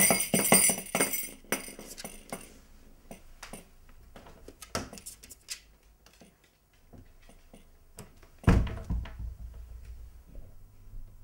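Poochie bells, a strap of small jingle bells hung by a door, jingling and ringing out over about two seconds, followed by scattered light knocks and a loud thump about eight and a half seconds in.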